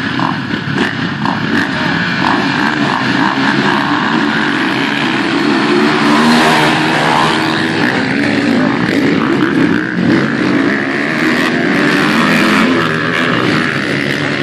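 Racing motorcycle engines running and revving continuously, loudest about six seconds in.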